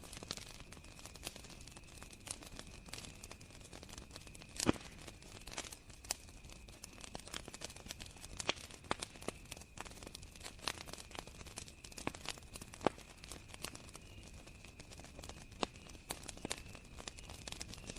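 Campfire crackling, with irregular sharp pops, the loudest nearly five seconds in. Underneath, crickets trill steadily at a high pitch.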